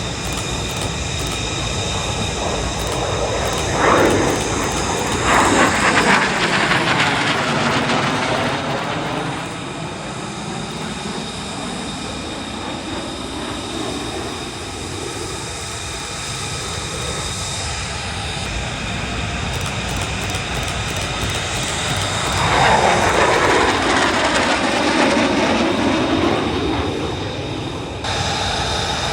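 Jet aircraft flying past, with the sweeping, phasing rush of a flyby. The noise swells twice: first about four to nine seconds in, then again about twenty-two to twenty-seven seconds in.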